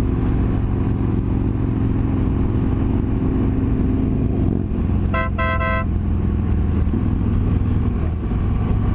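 Riding noise from a 2017 BMW R1200GS Adventure, its boxer-twin engine running with wind, heard through a helmet microphone with the visor closed. About five seconds in, a horn gives three quick toots.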